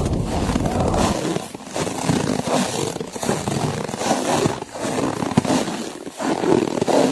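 Footsteps crunching through snow, about one step every second and a half. A low wind rumble drops away about a second in.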